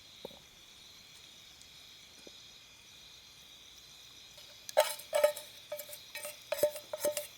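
A metal cooking utensil knocking and clinking against a metal cooking pan, about eight quick strikes with a short ring, starting a little past halfway. Before that, only a faint steady high insect drone.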